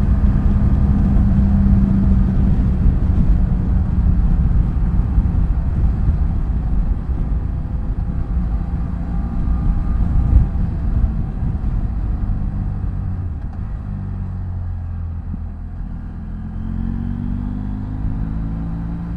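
BMW F800GS motorcycle's parallel-twin engine running at cruising speed under a low rumble of wind and road noise. About two-thirds of the way through the revs fall and the sound quietens as the bike slows, then the pitch climbs again near the end as it accelerates.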